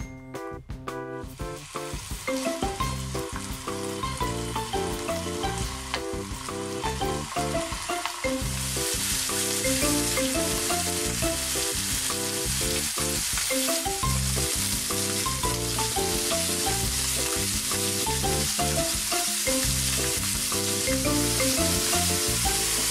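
Chicken thigh pieces frying in an oiled frying pan: a steady sizzle that builds over the first seconds and gets markedly louder about eight seconds in. Background music plays throughout.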